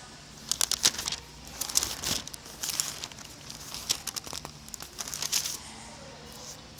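Paper pages rustling and crackling in quick, irregular flurries as a Bible is leafed through to find a passage, close to the microphone.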